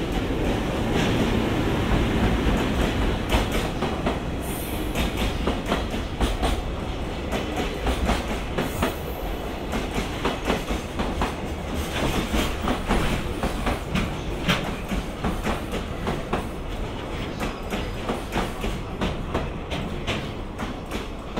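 Train rolling past on the track, its wheels clicking over the rail joints in a steady clickety-clack, with a couple of brief high wheel squeals.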